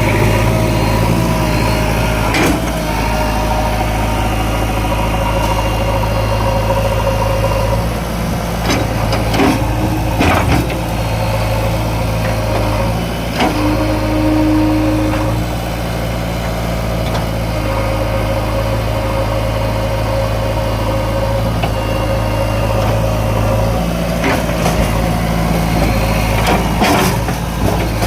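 JCB 3DX backhoe loader's diesel engine running steadily, with a few sharp knocks along the way and a brief higher whine about halfway through.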